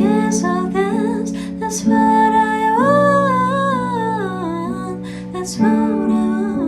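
A voice singing a wavering melody over a steady strummed acoustic guitar accompaniment, with a long note about three seconds in that bends up and then slides down.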